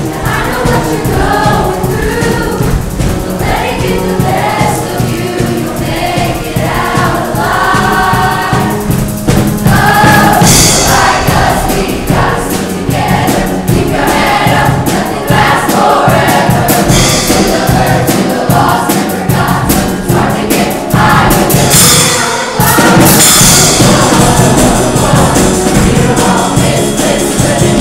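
A junior high show choir singing in chorus over accompanying music.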